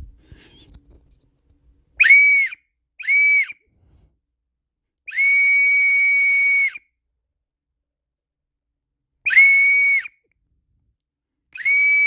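Toy whistle sounding a steady high tone in five toots: two short ones, one long one of nearly two seconds, then two more short ones.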